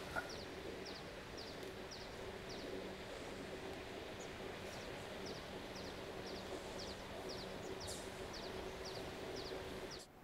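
Outdoor ambience with a faint steady hum and a bird's short, high, falling chirps repeated two or three times a second. Near the end the ambience drops away to near silence.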